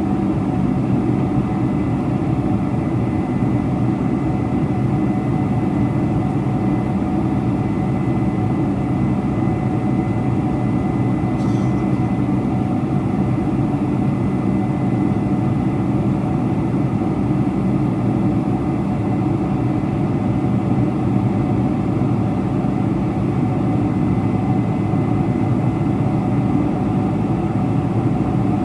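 Steady cabin noise inside a four-engine Boeing 747-400 in flight: a loud, even rumble of engines and airflow with a thin steady whine over it.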